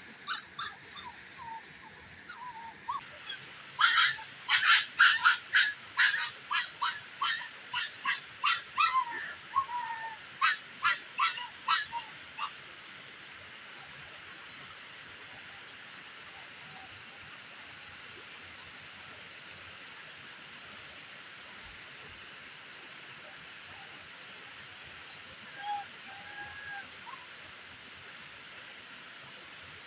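A rapid run of short, loud animal calls, about two a second for several seconds, over a steady hiss. A few faint calls follow near the end.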